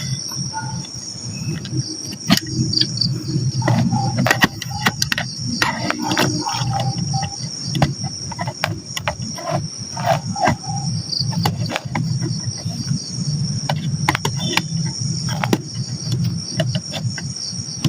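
Night insect chorus of crickets, a steady high-pitched trilling throughout, over a low rumble. Irregular sharp clicks and knocks run through it.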